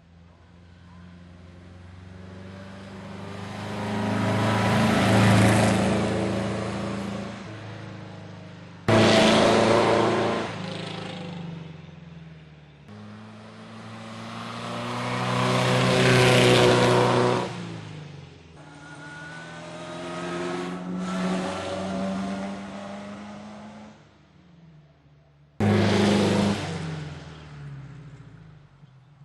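Classic racing cars climbing the hill past the listener one after another, each engine rising in pitch and volume as it approaches and fading as it goes by. Several passes start abruptly.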